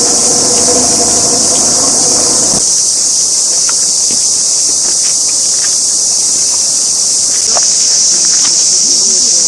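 A loud, steady, high-pitched chorus of insects buzzing. During the first couple of seconds a low machine hum runs beneath it, then cuts off.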